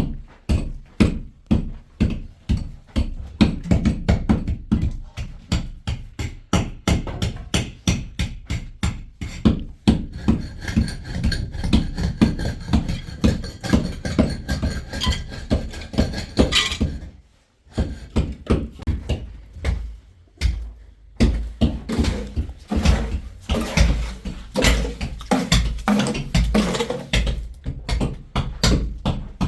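Fast, even rhythmic knocking, about three to four sharp strokes a second, stopping briefly about two thirds of the way through.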